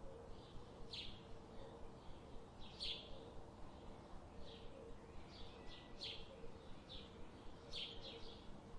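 Birds chirping outdoors, short sharp calls repeating about once a second, over a faint steady hum and low background noise.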